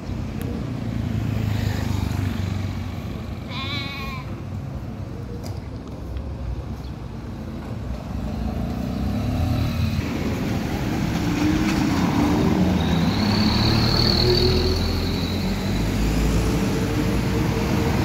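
Road traffic on a highway by a railway level crossing, a low rumble of passing vehicles that grows louder in the second half. About four seconds in there is a brief wavering, bleat-like call, and a high thin squeal is heard at about 13 to 15 seconds.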